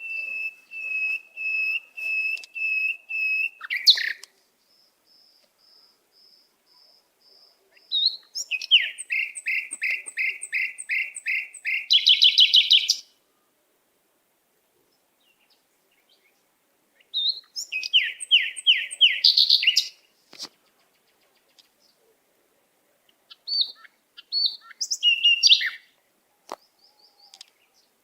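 Pet birds chirping in phrases: a run of even chirps about two a second, then after a pause a faster string of notes, another burst of chirps after a few seconds' silence, and a few short calls near the end.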